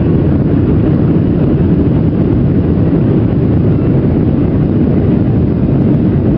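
Boeing 737-800 jet engines and airflow: a loud, steady noise with no change in level.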